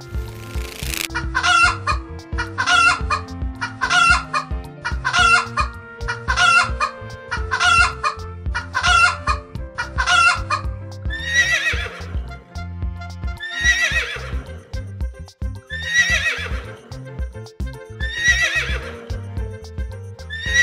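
Repeated animal calls over background music: about eight short calls roughly a second apart, then from about halfway through a slower series of longer calls, one every two seconds, each falling in pitch.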